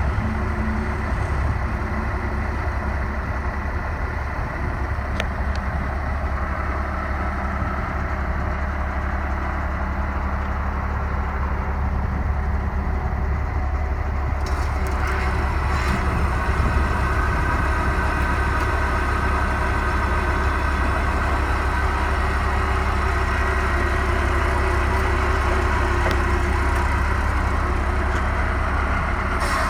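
1990 International 4900 dump truck's engine idling steadily. About halfway through, a higher steady whine joins it and holds.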